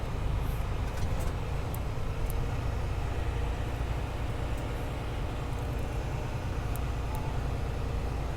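Semi-truck's diesel engine running in a low, steady rumble as the rig creeps along, with a few faint scattered clicks over it.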